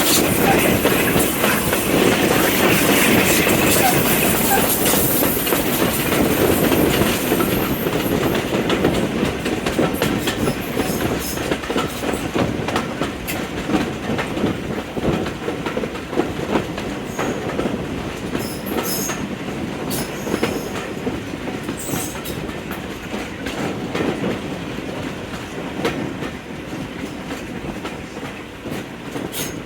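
A train's wagons rolling along the track with clickety-clack from the wheels over the rail joints. The sound slowly fades as the train moves away, with a few brief high wheel squeals in the second half.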